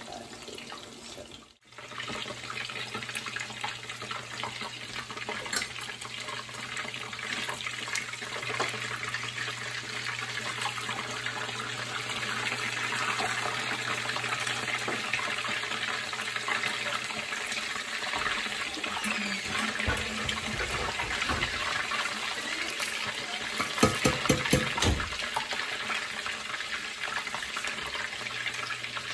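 Tilapia cakes shallow-frying in oil in a skillet: a steady sizzle with fine crackling. About three quarters of the way through come a handful of quick, loud knocks.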